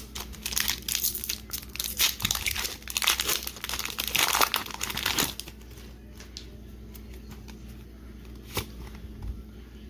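Crinkling and tearing of a Pokémon TCG booster pack's foil wrapper as it is ripped open: a dense run of crackles for about five seconds, then quiet with a single click near the end.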